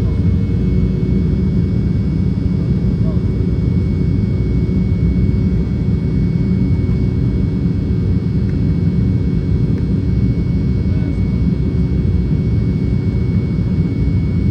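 Cabin noise of an Embraer E195 jet airliner: a steady, loud rumble of its turbofan engines and airflow, with a thin steady whine above it.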